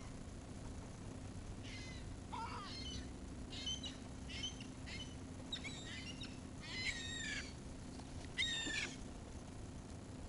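Gulls calling: a run of about seven short, high calls, some falling in pitch, over a steady low hum.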